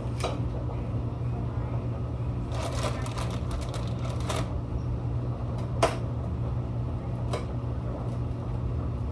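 Kitchen knife clicking against a cutting board while pineapple is cut up: a quick run of chopping strokes from about two and a half seconds in, then single knocks a few seconds later, over a steady low hum.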